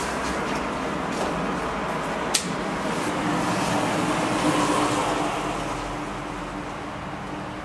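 Train rumbling through the station, a steady noise with a constant low hum, swelling about halfway through and then fading; one sharp click about two and a half seconds in.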